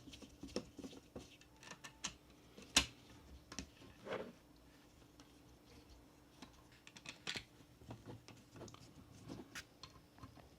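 Small parts of a 1:18 Pagani Huayra BC Roadster diecast model car being handled, giving irregular light clicks and taps, one sharper tap about three seconds in, a quieter stretch in the middle, then quick clusters of clicks later on.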